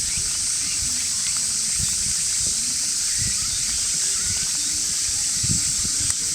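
A steady high-pitched hiss throughout, with scattered soft low knocks and faint distant voices beneath.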